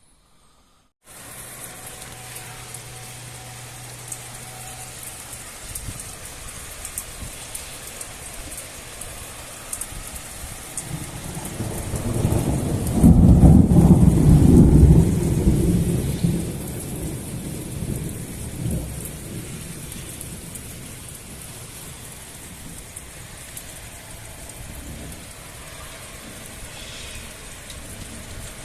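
Heavy rain falling steadily, with a long rumble of thunder that builds from about halfway in, peaks, and dies away a few seconds later.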